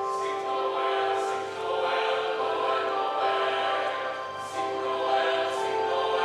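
Choir singing in several parts, holding chords, with a few short crisp hissing consonants along the way.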